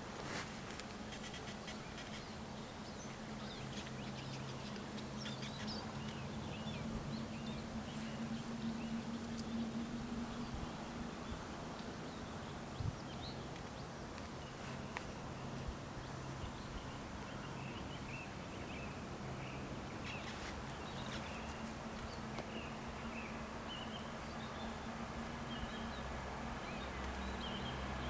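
Small birds chirping in short scattered calls over a steady low hum, with a sharp click about thirteen seconds in.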